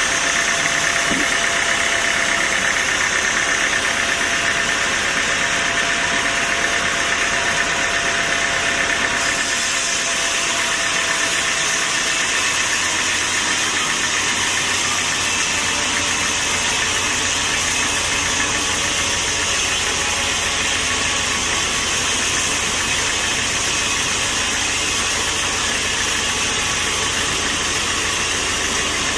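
Sawmill machinery running with a steady, loud mechanical drone; the higher hiss grows stronger about nine seconds in.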